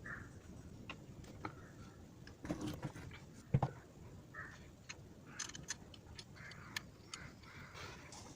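Scattered light clicks and knocks, the loudest a single knock about three and a half seconds in, over faint short chirps.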